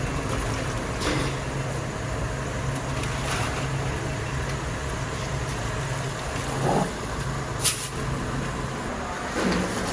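Factory machinery running with a steady low hum, with a few knocks and one sharp click about three-quarters of the way through.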